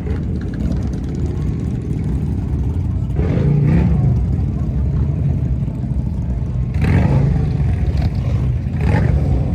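Engines running with a steady low rumble, with voices in the background.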